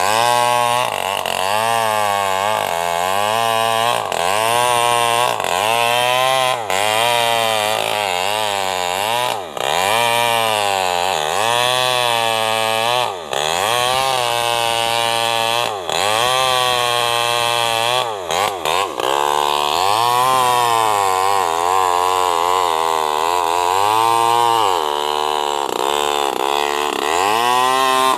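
Small New West NW588 two-stroke chainsaw ripping lengthwise through a sengon log. Its engine pitch rises and sags over and over as it works under load in the cut, with a few brief drops when the throttle is let off.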